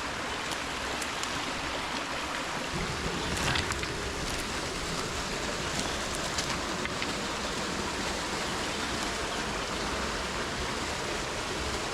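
Mountain stream rushing steadily over rocks, with a few faint clicks or splashes about three and six seconds in.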